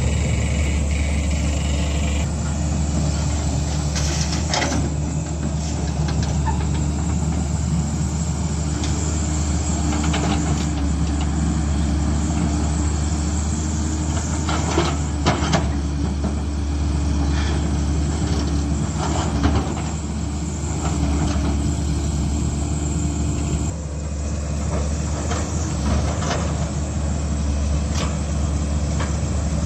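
Heavy diesel engine of earthmoving machinery running steadily under work, with a deep, even hum. A few sharp knocks or clanks stand out over it at intervals.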